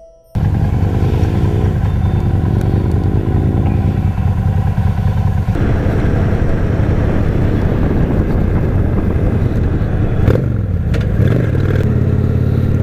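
2008 Honda Shadow Spirit 750's V-twin engine running while the motorcycle is ridden, with wind rush over the microphone. It cuts in abruptly just after the start and runs loud and steady, with a brief dip and rise in engine pitch near the end.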